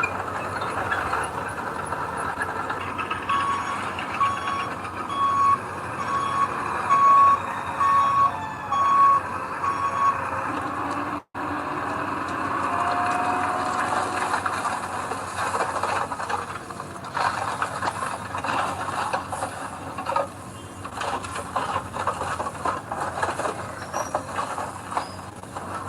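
Heavy diesel machine running, its reversing alarm beeping about once a second for some seven seconds. After a brief dropout, the engine keeps running with irregular knocks and rattles.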